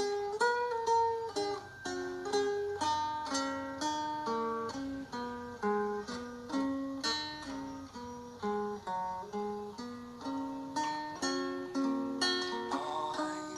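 Instrumental music on a plucked string instrument: a slow melody of single picked notes, each ringing and fading, about two notes a second, with lower notes beneath.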